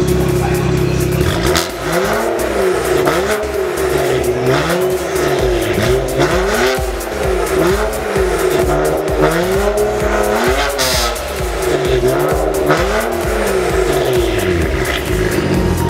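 BMW E92's engine revved over and over through its custom quad exhaust, the pitch rising and falling about every second and a bit, with electronic music underneath.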